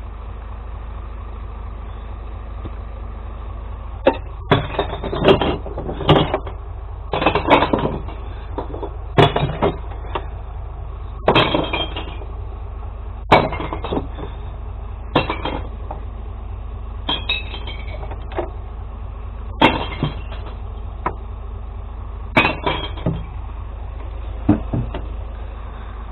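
Glass bottles and jars crashing and smashing as they are tipped into a glass recycling truck's compartment: clusters of sharp crashes every second or two, starting about four seconds in. Under them runs the steady idle of the truck's engine.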